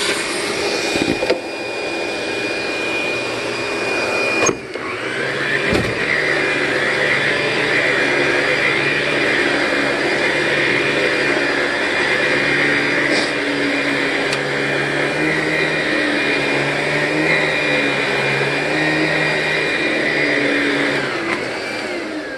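Dual-motor commercial vacuum running steadily over an entry mat. About four and a half seconds in its sound briefly dips and then changes. Near the end it is switched off and winds down with a falling whine.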